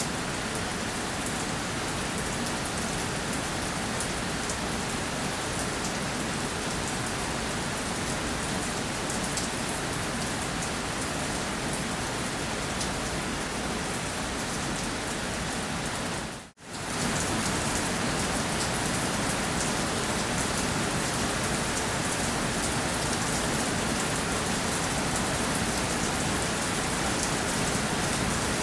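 Steady rain falling, an even hiss of drops on a surface. About two-thirds of the way through it briefly cuts out to near silence, then comes back slightly louder.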